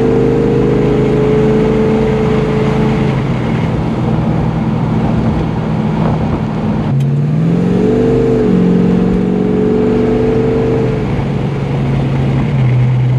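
1969 Dodge Coronet R/T's 440 big-block V8 running under way, heard from inside the open convertible over road and wind noise. About seven seconds in the engine note climbs briefly, then drops back suddenly, and it settles lower near the end.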